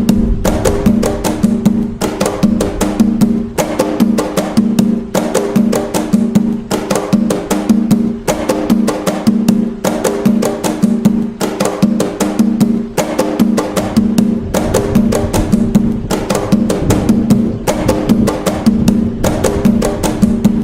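Atabaque hand drums playing the toque nagô rhythm: a fast, even, repeating pattern of struck strokes over a low, pitched drum tone.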